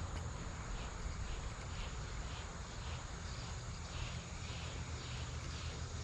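Insects chirping outdoors in an even rhythm, about two chirps a second, over a steady high-pitched buzz, with a low rumble underneath.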